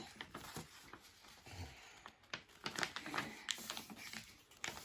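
A sheet of paper being folded in half and creased by hand, with scattered short crackles and rustles.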